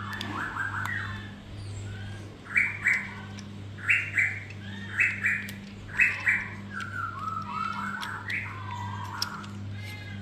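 A bird calling: loud double calls repeated about once a second through the middle, with softer, quicker calls near the start and near the end. A steady low hum runs underneath.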